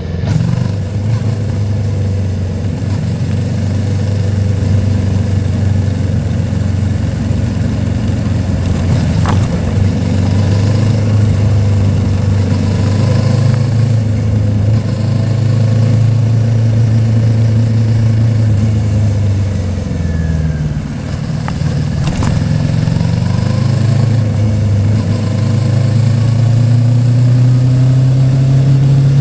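Yamaha Tracer 700's 689 cc parallel-twin engine running under way, holding a steady pitch, dropping off about twenty seconds in, then rising again as it accelerates. A couple of brief clicks come through over the engine.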